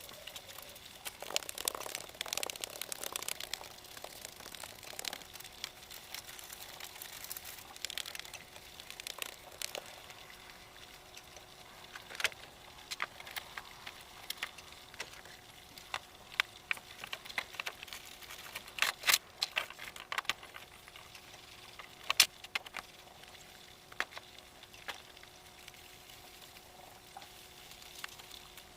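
Irregular rustling, clicks and sharp knocks of things being handled and set down, the loudest knocks a little past the middle, over a faint steady hum.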